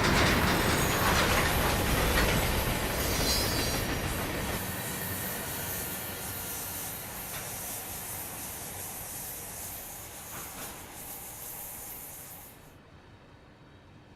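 CSX train rolling past and moving away, its rumble fading steadily, with a brief high wheel squeal about three seconds in. The sound drops away suddenly near the end.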